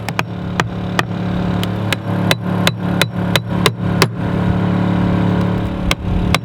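Repeated hammer blows, about two to three a second with a short pause about two-thirds of the way through, tearing out a wet marine-plywood deck panel laid over a steel hull. Under the blows runs a steady low hum.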